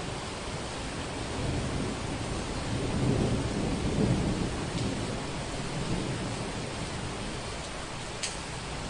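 Thunderstorm ambience: steady rain hiss with a low rumble of thunder that swells about three seconds in and fades, and a brief sharp tick near the end.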